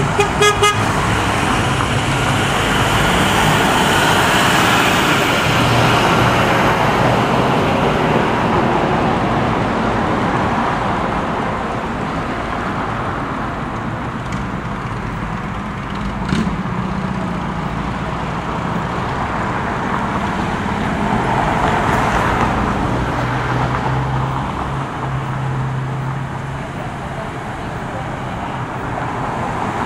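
Steady road traffic noise with vehicles passing, one swelling louder about two-thirds of the way through. A quick run of short beeps right at the start and a single sharp knock about halfway.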